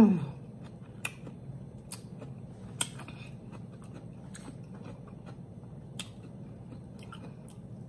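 A person chewing food close to the microphone with the mouth closed: scattered soft mouth clicks and smacks about once a second over a low, steady room noise, with a short hummed "mm" right at the start.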